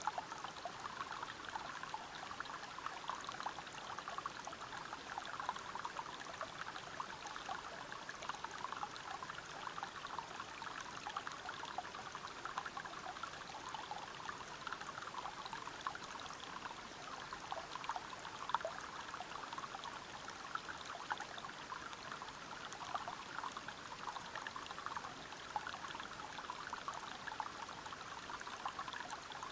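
Water from a river waterfall running and splashing over rocks: an even, steady babble of many small splashes that does not change.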